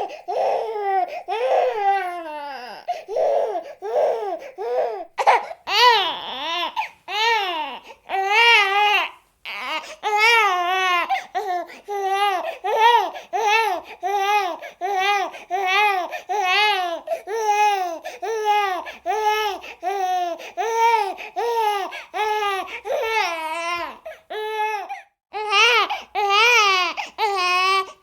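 Baby crying in short, rhythmic, high-pitched wails, about one and a half a second, breaking off briefly a couple of times.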